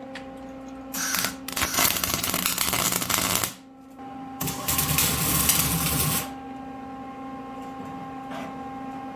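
Electric welder tack-welding a steel pulley shaft: two crackling bursts of arc, one of about two and a half seconds and one of under two seconds, over a steady hum.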